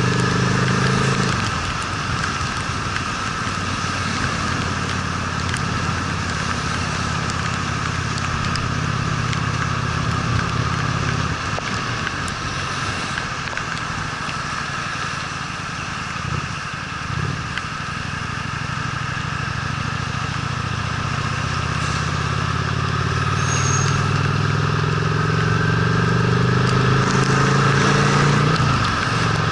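Honda Steed V-twin motorcycle engine under way, heard over steady wind and tyre noise. The engine note eases off about a second in and runs low for a long stretch. Near the end it climbs steadily in pitch as the bike accelerates, then drops sharply.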